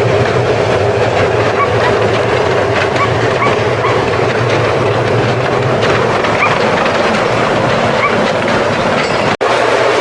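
Steam locomotive running: a loud, steady rushing noise with faint short chirps scattered through it, broken by a brief dropout near the end.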